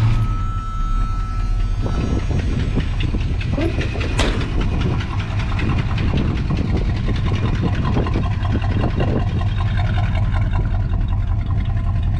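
1982 Chevy C10's 5.0 L (305) V8 catching and settling into a steady idle, with a fast ticking over the idle. The tick comes from exhaust blowing past a broken exhaust manifold gasket on the right bank.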